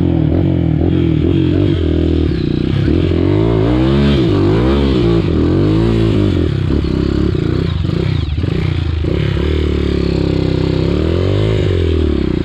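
Dirt bike engine running close by, its throttle blipped so the pitch rises and falls several times in the middle and again near the end.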